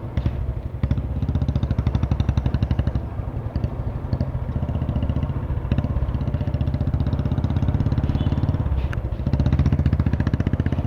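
Motorcycle engine running on the move, a fast, even stream of firing pulses that swells and eases a few times as the throttle opens and closes.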